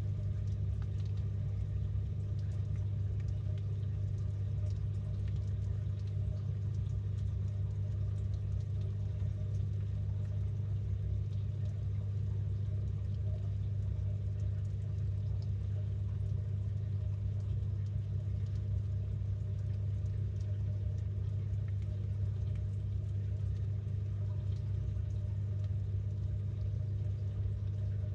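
Samsung 6.5 kg top-load washing machine running, heard from inside its drum as a steady low rumble with no pauses.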